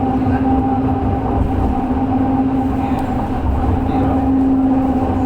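FGV series 4200 tram running along its line, a constant low rumble of wheels on rail with a steady electric whine from the drive.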